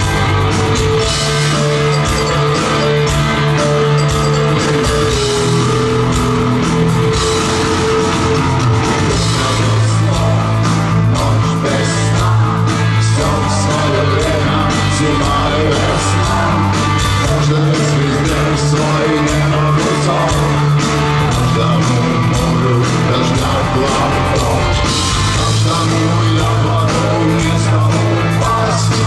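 Loud rock music, a band with electric guitar, bass and a drum kit playing steadily.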